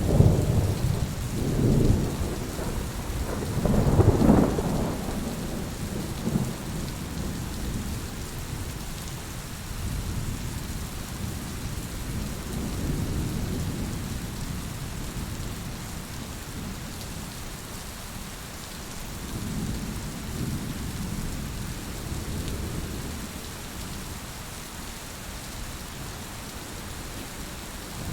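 Heavy rain falling steadily, with low rolling thunder rumbles that are strongest in the first few seconds and come back as softer swells later on.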